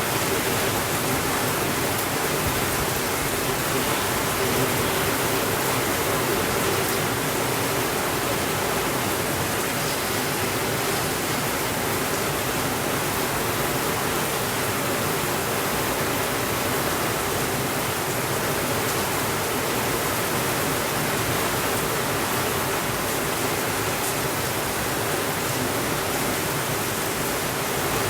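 Steady rainfall: a continuous, even hiss of rain with no thunder and no breaks.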